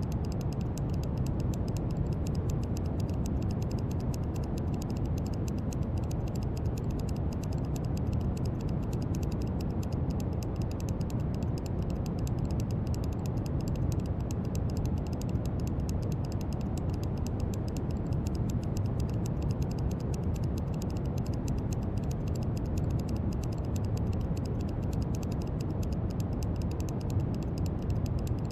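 Steady brown noise: an even, deep rushing hiss strongest in the low end, with a faint, dense crackle of fine clicks in the highs.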